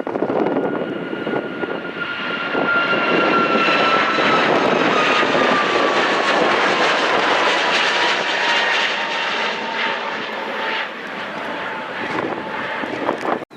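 Jet airliner passing close by, its engines a loud roar with a whine that slides down in pitch as it goes past, loudest midway.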